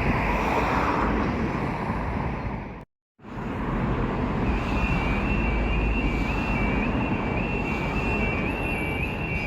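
Steady rumble of a train running by, which cuts off suddenly about three seconds in. Then another steady rumble, joined from about halfway by a high warbling electronic tone that repeats.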